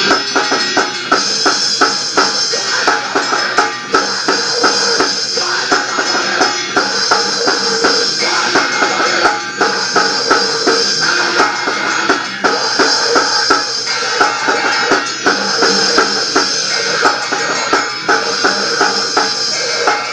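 Rock band playing an instrumental passage: a steady, driving drum-kit beat with guitar, no vocals.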